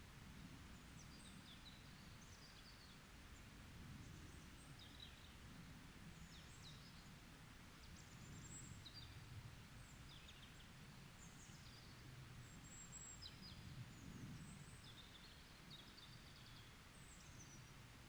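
Small birds chirping and twittering faintly in a forest, with short high calls and trills every second or so, over a low, steady rumble.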